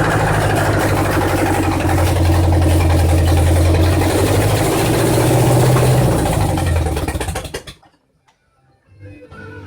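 Freshly rebuilt 1963 Ford 390 V8 running on its first start, with its carburetor badly out of adjustment and barely keeping running. About three-quarters of the way through, the firing slows and the engine stops, leaving only faint clicks.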